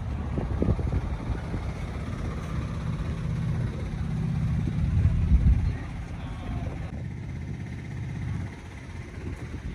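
Heavy truck's diesel engine running with a low, steady rumble. It grows louder to about five seconds in, then falls away.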